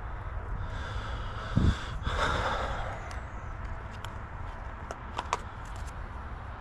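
A person's breathy exhale about two seconds in, just after a dull thump, over a steady low rumble; a few sharp faint clicks follow near the end.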